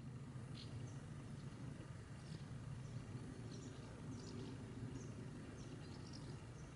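Small birds chirping: short, high chirps every second or so, scattered and irregular, over a low steady rumble.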